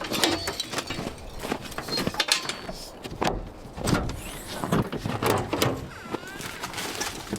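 Irregular knocks and clunks, several a second, like doors and gear being handled.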